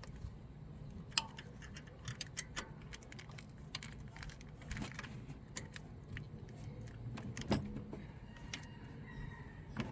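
Small metal tools and hardware clinking and clicking irregularly while being handled in a car's engine bay, with a louder knock about seven and a half seconds in.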